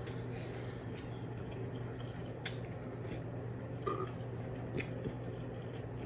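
Wet eating sounds of spicy noodles being chewed and slurped, with a few short sharp smacks and clicks spread through, over a steady low hum.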